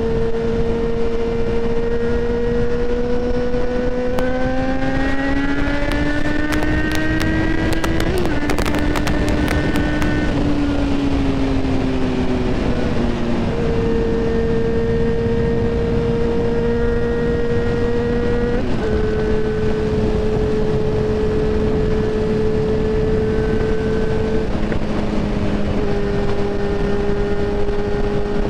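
Yamaha XJ6N / FZ6R 600cc inline-four motorcycle engine under way, heard from on board over wind and road noise. It accelerates with rising pitch for a few seconds, breaks sharply about eight seconds in, eases off, then runs at a steady cruise with small changes in pitch.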